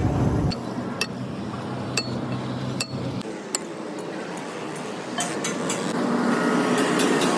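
Metal being struck in a workshop: sharp single clinks about a second apart, then a faster run of light metallic ticks from about five seconds in, over a low machine hum that drops off in two steps.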